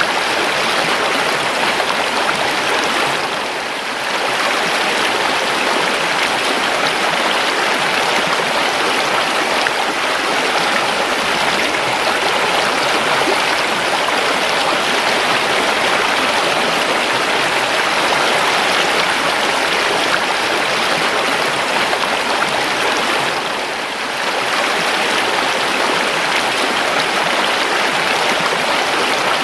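River water flowing steadily, an even rushing and babbling that dips briefly twice.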